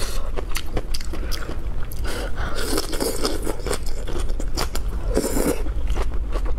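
Close-miked eating: crunchy bites and chewing of a cooked leafy green vegetable, a run of quick wet clicks with two longer noisy stretches about two and a half and five seconds in.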